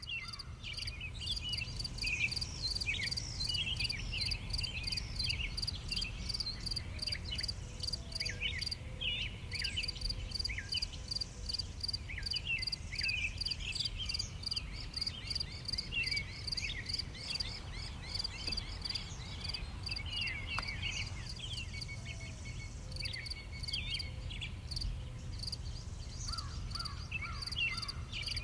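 Natural outdoor ambience of many small birds chirping, short falling chirps again and again, over a steady high pulsing trill and a low rumble.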